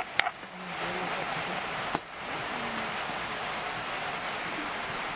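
Carrots and onions sizzling in a frying pan, with a metal spoon clinking against the pan twice at the start. After a cut about two seconds in, a pot of broth simmering gives a steady hiss.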